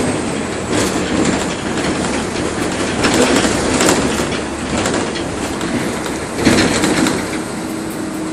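Train running along the track, its wheels knocking over rail joints at irregular intervals. A low steady hum comes in near the end.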